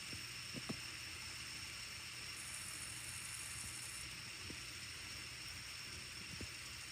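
Steady background hiss with a few faint short taps, two close together under a second in and others later.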